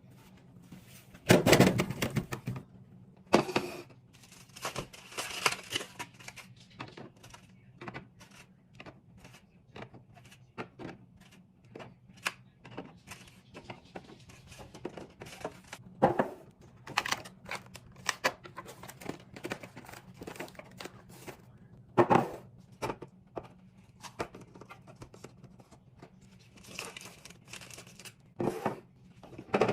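Groceries and containers being handled while a fridge is restocked: plastic packaging crinkling and tearing, with scattered knocks and clunks as items are set down, the loudest about a second and a half in and again at about 16 and 22 seconds.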